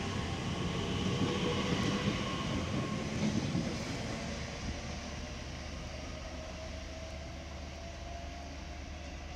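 TfL Rail Class 345 electric train pulling out of the station: a low rumble that eases after about four seconds, with the traction motors' faint whine rising in pitch as it gathers speed.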